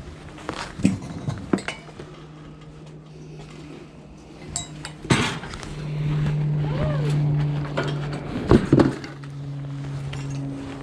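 Scattered clinks, knocks and clatters of scrap items being handled, loudest about five seconds in and again near the end. A steady low hum joins about six seconds in.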